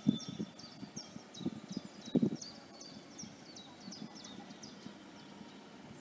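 A small bird calling in a quick series of short, high chirps, about three a second, that die away around four seconds in. Wind buffets the microphone with a few low thumps, the loudest near the start and about two seconds in.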